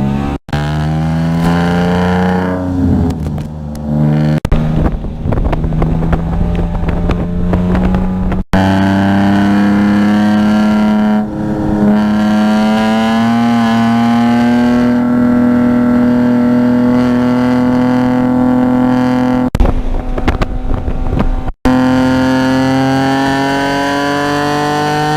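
Car engine under load, its pitch climbing slowly through a long pull in one gear. Short sharp breaks near the start, about a third of the way in and late on are gear changes, with the revs falling and building again after each.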